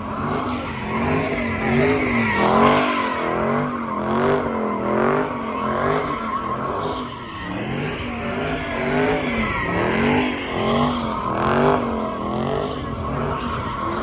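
A car doing donuts: the engine revs up and down over and over, rising and falling in pitch about once a second, with tires squealing and skidding.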